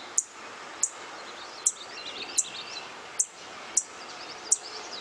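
Field sparrow giving short, high tsit calls, seven of them at roughly even spacing of under a second, from a field recording with faint calls of other birds and insects in the background.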